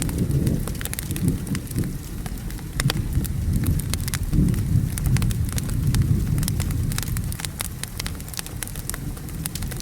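Wood fire crackling with frequent sharp pops, over steady rain and a low rolling rumble of thunder.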